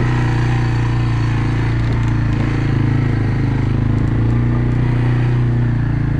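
Quad bike engine running steadily at a constant pitch.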